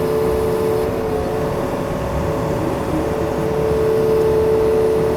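Yanmar excavator's diesel engine running steadily, with a steady whine over the low rumble that drops away for a couple of seconds about a second in and then comes back.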